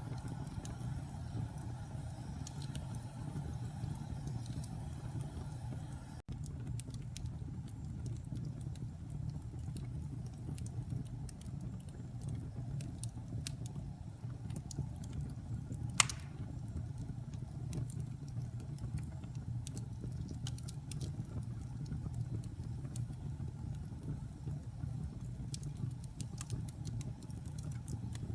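Wood fire burning in a fireplace: a steady low rumble of flames with scattered small crackles and one sharp, loud pop a little past halfway.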